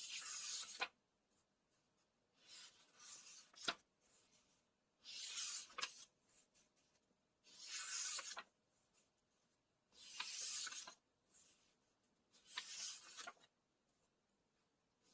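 Paper book pages being turned one after another, six in all, about one every two and a half seconds: each a short papery swish, some ending in a light snap as the page lands.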